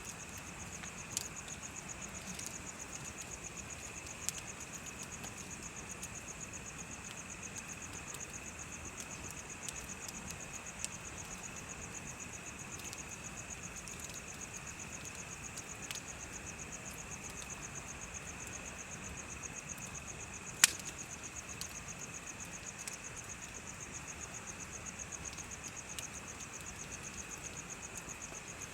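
Insects chirping in a steady, rapid trill over a crackling bonfire. The fire gives scattered sharp pops, with one loud pop about two-thirds of the way through.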